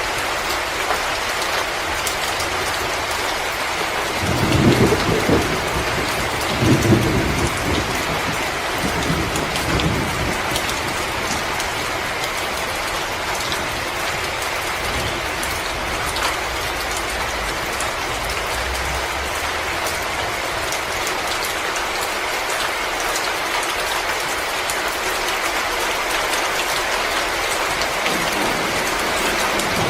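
Fireplace fire crackling: a steady hiss with many scattered sharp crackles. Two brief low rumbles come about five and seven seconds in.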